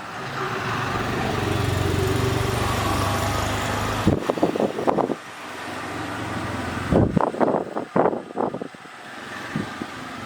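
A motor vehicle's engine running steadily, cutting off suddenly about four seconds in, followed by short irregular bursts of noise.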